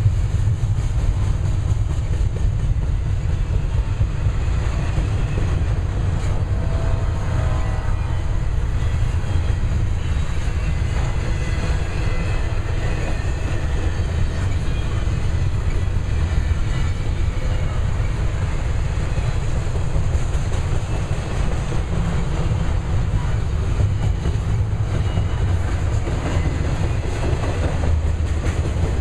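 A double-stack intermodal container train's well cars rolling past at speed: a steady, low rumble of steel wheels on rail.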